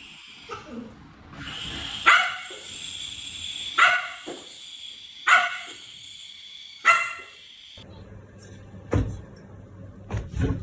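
A dog barking four times, about a second and a half apart.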